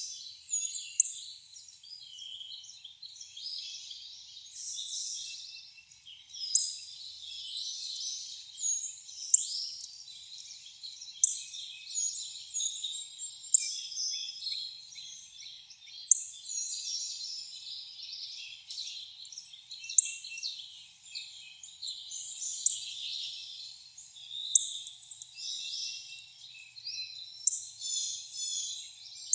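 Chorus of many wild songbirds chirping and singing at once, overlapping, with sharper, louder chirps standing out every few seconds.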